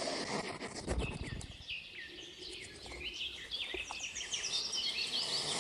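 Goslings peeping: many short, high, falling peeps that overlap, with a low thump about a second in.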